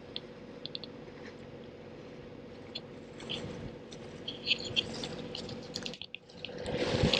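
Small water slaps and drips against a boat's hull, scattered irregularly over a steady machine hum. The sound breaks off briefly near the end and returns with a louder, rushing noise.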